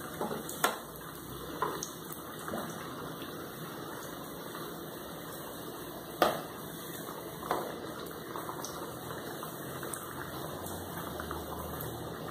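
Pieces of cassava frying in a pan of hot oil, a steady sizzle, with a metal slotted spoon tapping against the pan a few times, most sharply about six seconds in.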